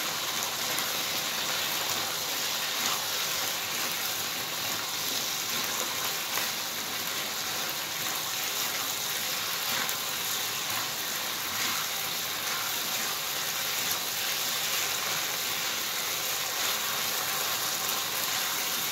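Chilli sambal with salted squid and fried tempeh sizzling in a wok while being stirred with a silicone spatula: a steady hiss.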